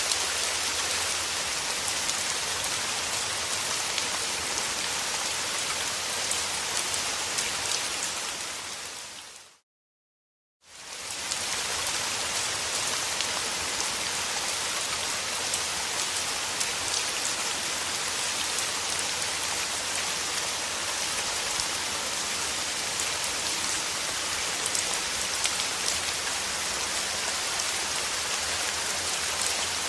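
Steady rain falling on a surface, a dense even patter of drops. About ten seconds in, it fades out to a second of complete silence and fades back in, like the seam of a looped recording.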